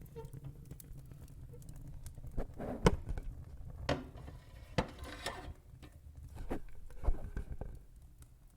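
Wood fire crackling, with scattered sharp pops over a low rumble; the pops are loudest about three and five seconds in, and the sound fades near the end.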